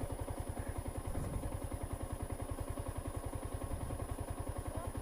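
Motorcycle engine idling, a steady even putter of low pulses.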